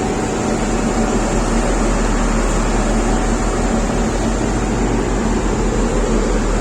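Engine of road-construction machinery running steadily, with a deep low hum that comes in about half a second in.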